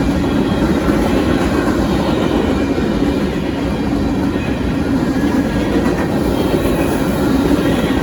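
Union Pacific manifest freight train rolling past, a steady rumble of wheels on rail.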